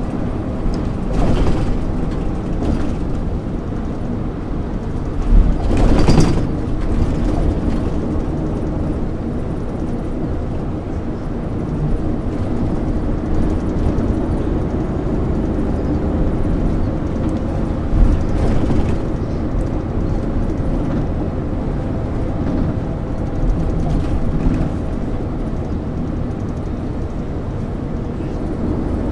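MAN ÜL 353 intercity bus under way, heard from inside: its diesel engine runs steadily with road rumble beneath it. A few louder knocks or rattles come through, around a fifth of the way in and again past the middle.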